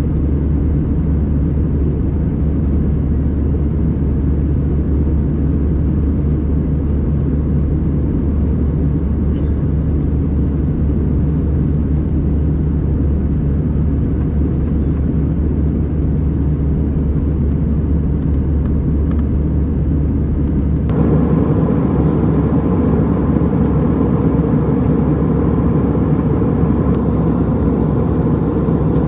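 Airbus A320 cabin noise in flight: a steady, even rumble of engines and airflow. About 21 seconds in it changes abruptly to a louder, brighter version of the same noise.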